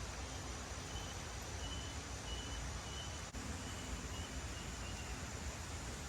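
Steady rush of a shallow river over small rapids, with a faint high chirp repeating about twice a second for a few seconds.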